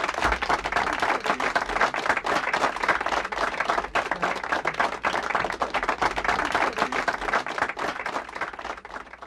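Crowd applauding: many hands clapping densely together, fading out near the end.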